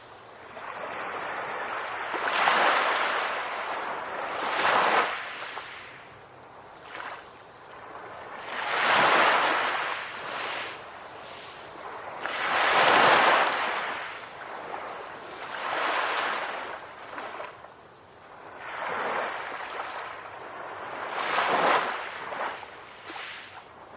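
Ocean waves breaking and washing onto a beach, a rush of surf swelling and falling away every few seconds.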